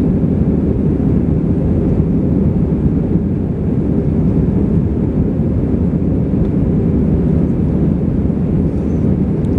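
Steady low rumble inside the cabin of an Airbus A320 in flight: jet engine drone mixed with airflow noise.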